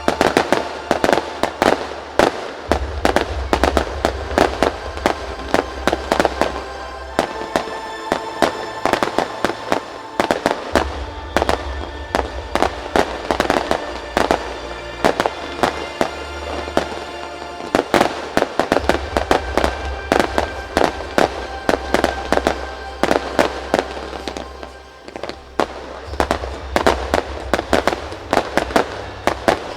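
Fireworks bursting in rapid, continuous succession over music with a deep bass.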